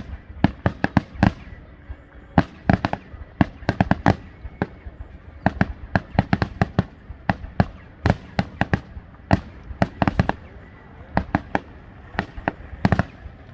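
Fireworks display going off: sharp bangs in quick, irregular succession, often several a second and sometimes in tight clusters, with short lulls between volleys.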